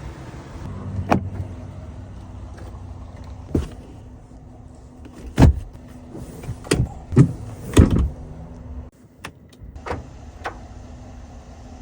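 Sounds of a Chevrolet Silverado 1500 Trail Boss pickup being handled: a run of sharp clicks and heavier thumps, like doors and latches working, over a steady low hum that drops away about nine seconds in.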